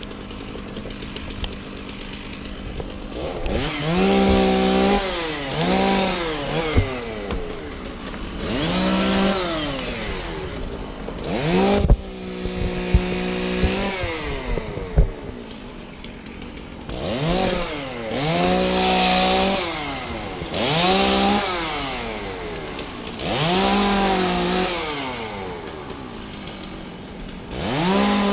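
Two-stroke chainsaw repeatedly revved from idle to full throttle in bursts of one to two seconds, one held longer, dropping back to idle between them as it makes cuts in pine wood. A few sharp knocks near the middle.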